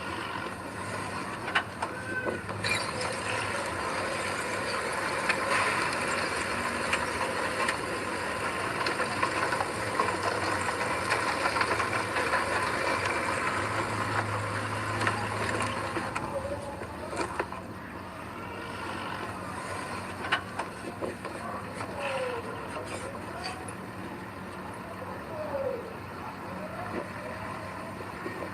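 Heavy diesel earthmoving machinery running under load, with scattered metallic clanks and several short high squeals in the second half.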